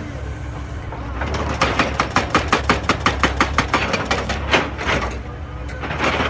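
Excavator engine running steadily under a rapid run of sharp knocks, about six a second, lasting some three seconds and dying away past the middle.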